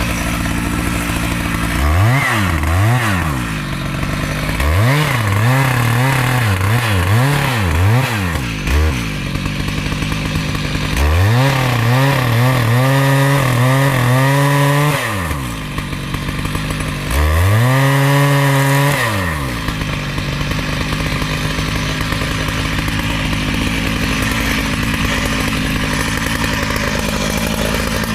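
Two-stroke chainsaw revved in several quick blips, held at high revs for about four seconds, revved up and down once more, then left idling steadily.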